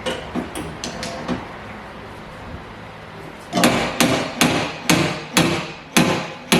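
Hammer striking, first a few light taps and then, from about three and a half seconds in, a run of about seven sharp blows at roughly two a second, each with a brief ring after it.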